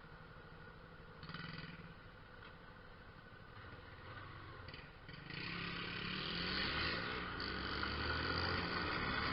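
Yamaha Fazer 250 motorcycle engine running while riding. About five seconds in it gets louder, and its note climbs as the bike accelerates.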